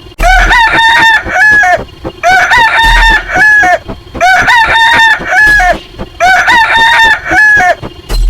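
A rooster crowing sound effect, a cock-a-doodle-doo played four times in a row, identical each time, about two seconds apart, over a faint ticking beat.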